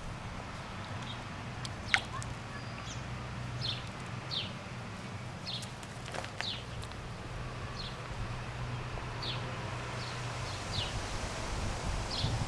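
A bird calling over and over in short, high, falling chirps, about one a second, over a steady low hum and faint outdoor rustle. A single sharp click about two seconds in.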